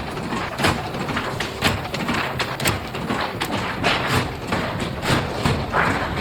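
Factory machinery clattering: a run of uneven metallic knocks and clicks, one or two a second, over steady machine noise.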